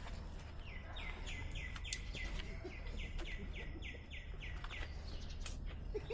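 A bird calling a quick, even run of about fourteen repeated high notes, roughly three a second, stopping about five seconds in, over a faint low background rumble.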